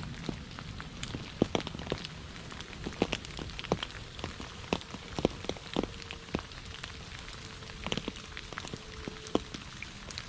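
Rain falling, individual drops striking a hard surface with sharp, irregular taps several times a second over a steady hiss.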